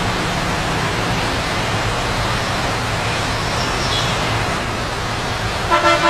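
Steady hiss of rain. A short pitched tone comes in just before the end.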